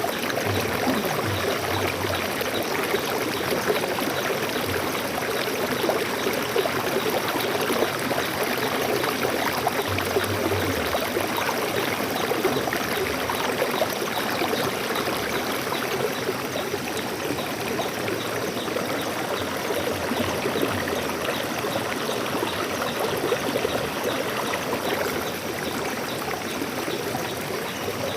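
Water flowing steadily over rocks in a stream, a constant rushing and trickling.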